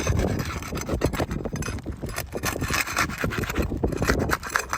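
Asphalt roofing shingle being pried loose, its sealant strip tearing away from the shingle below: continuous rough scraping and crackling.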